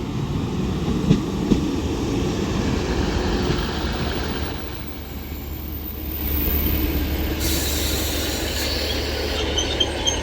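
Northern Class 150 diesel multiple unit running in along the platform and slowing, with wheel and rail rumble and a couple of clicks early on. A steady low engine hum comes in around the middle, and a high hiss starts about three quarters of the way through.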